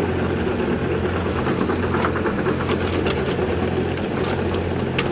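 An engine running steadily at idle, with a few sharp clicks or knocks about two seconds in and near the end.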